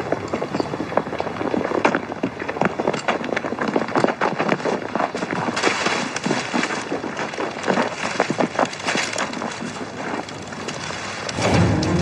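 Many booted footsteps of a group running in a hurry, a dense irregular clatter of steps. Music comes in near the end.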